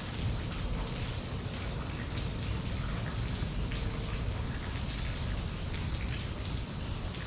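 Steady rainfall with many individual drops pattering on surfaces, over a constant low rumble.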